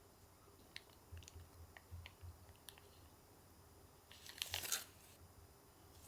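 Quiet kitchen handling sounds: a few soft clicks and taps, then a short crinkling rustle about four seconds in.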